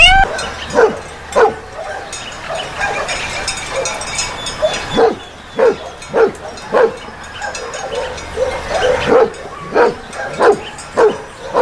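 A dog barking repeatedly: about a dozen short barks, several in quick runs with brief pauses between them.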